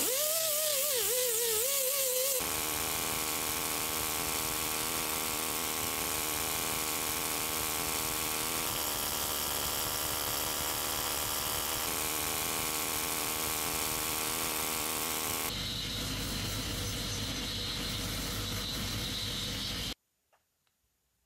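A small electric power tool running continuously, its pitch wavering at first and then settling into a steady noisy whir, changing character twice and stopping abruptly near the end, followed by a few light clicks.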